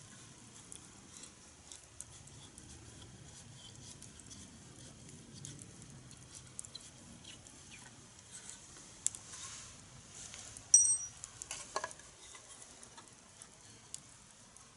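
Wood fire crackling in a fire stand: a steady scatter of small sharp crackles and ticks, with one louder pop about two-thirds of the way through.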